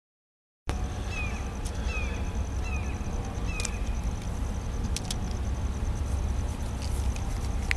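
Distant approaching freight train locomotives: a steady low rumble that starts abruptly about a second in, with a few short high chirps over it in the first few seconds and a faint steady high whine.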